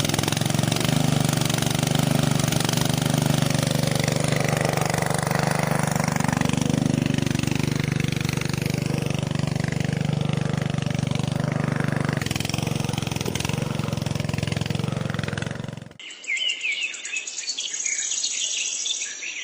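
A small motor-driven machine running steadily with a low, constant hum and rattle, cut off abruptly about three-quarters of the way through; after the cut, birds chirp faintly.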